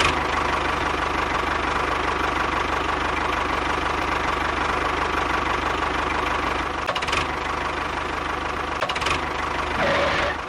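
Small motor running steadily with a throbbing, knocking note, cutting off suddenly at the end.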